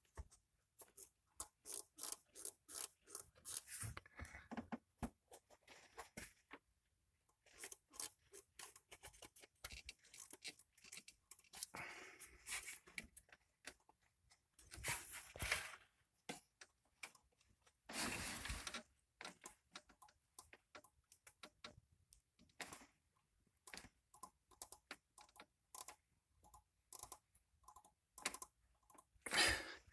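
Scattered clicks, taps and rustles of hand work on a stopped engine, with tools and parts handled around the timing belt; no belt squeal or running engine is heard.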